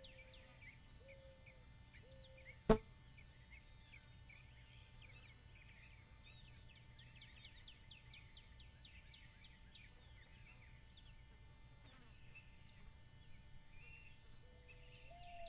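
Outdoor birdsong: several small birds chirping and trilling, with a low whistled note that steps up in pitch, repeated a few times at the start and again near the end. A single sharp click about two and a half seconds in is the loudest sound.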